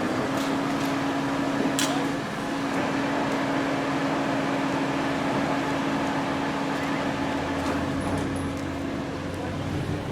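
A machine's motor running with a steady, even hum, with a couple of sharp knocks in the first two seconds.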